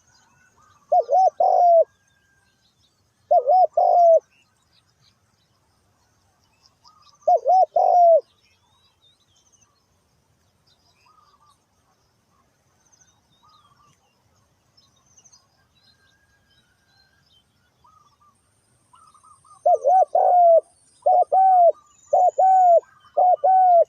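Spotted dove cooing in short phrases of a few coos each, about one, four and eight seconds in, then several phrases in quick succession near the end. Faint chirps of small birds can be heard between the phrases.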